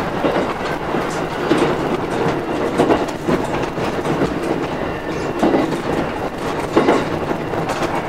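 Train running along the track, heard from inside the driver's cab: steady wheel-on-rail running noise with a few sharp clicks at irregular intervals.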